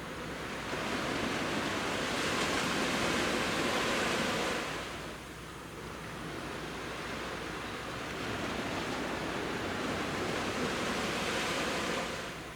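Sea waves breaking and washing up a beach: two swells of surf, each building and fading over four to five seconds.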